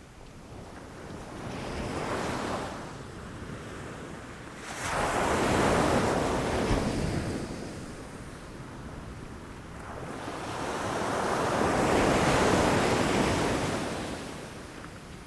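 Ocean waves breaking against rocks, in three surges: a small one about two seconds in, a sudden heavier crash just before the five-second mark, and a long swelling wash that peaks past the middle and fades near the end.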